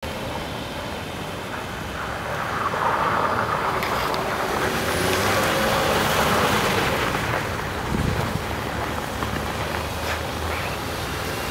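A Skoda Yeti's 1.8-litre turbocharged petrol engine running under throttle as the car is driven hard in circles on packed snow with its stability control switched off. The engine and tyre noise swell as the car passes close, around six seconds in, then ease away.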